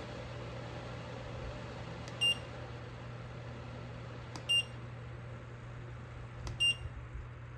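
Remote-controlled reversible LED exhaust fan humming steadily while its receiver gives three short high beeps about two seconds apart, each just after a faint click, as settings are changed from the remote.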